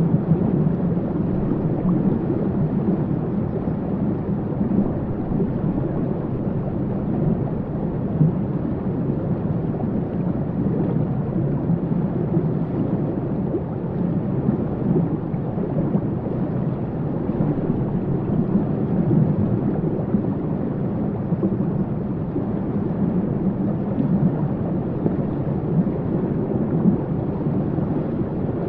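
Waterfall rushing in a steady, deep roar of falling water, with no breaks or changes.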